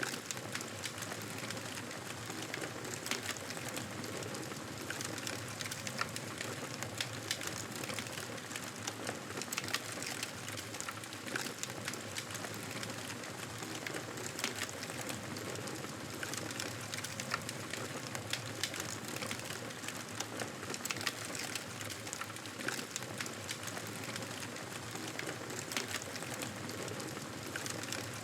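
Wood fire crackling: a steady hiss with frequent small pops and snaps throughout.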